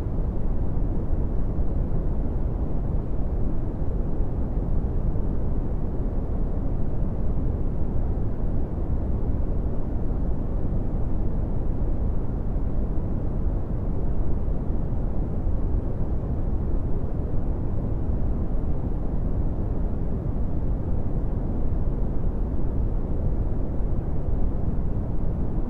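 Brown noise: a steady, deep rushing hiss weighted to the low end, with almost nothing above about 2 kHz and no change in level.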